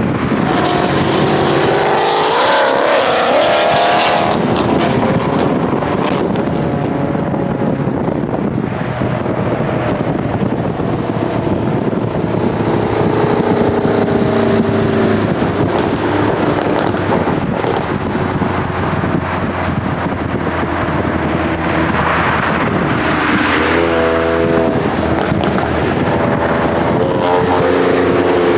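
Car engine accelerating hard, its pitch climbing and dropping in steps as it revs through the gears, over steady road and wind noise.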